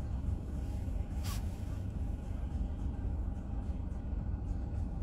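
Steady low rumble of road and engine noise inside a moving car, with a brief hiss about a second in.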